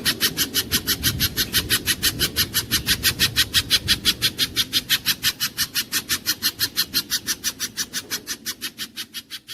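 Pijantung gunung (spiderhunter) call: a fast, even string of sharp, high chips, about seven a second, fading toward the end, over a low background rumble.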